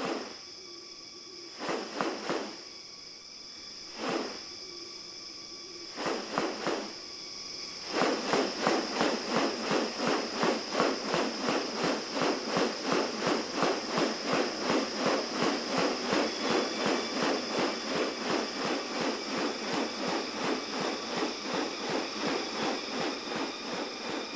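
Tropical rainforest insects: a steady high-pitched drone, with short runs of rapid pulsing that turn into continuous rhythmic pulsing about eight seconds in, at roughly three pulses a second.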